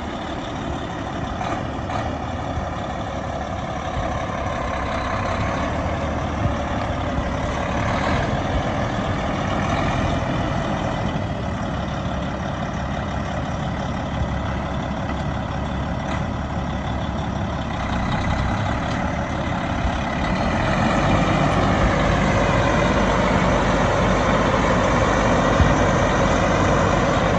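2006 Peterbilt 378 semi truck's diesel engine running steadily, growing louder about twenty seconds in.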